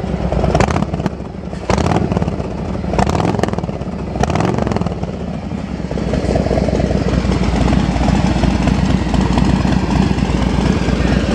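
Harley-Davidson Street Glide's Milwaukee-Eight V-twin running through Vance & Hines pipes with modified baffles, with several sharp throttle blips in the first half. From about halfway it settles into a steadier, louder run.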